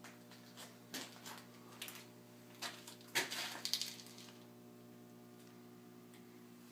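A few short, sharp clicks and knocks, bunched together about three seconds in, over a faint steady hum.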